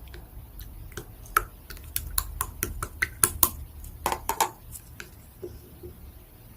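Slime being squeezed and poked by hand, giving a quick run of sharp clicks and pops that stop about five seconds in.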